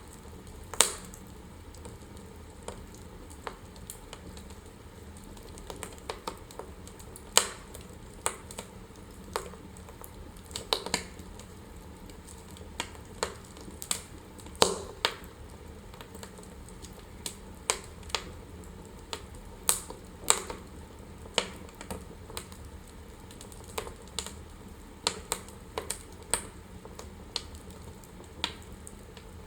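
Wood fire in a fireplace crackling: sharp, irregular pops and snaps, one or two a second, over a steady low hiss.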